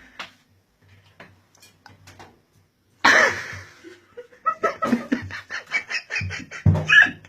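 People laughing in a small, echoing room: a few faint clicks, then a sudden loud outburst about three seconds in, followed by quick repeated bursts of laughter.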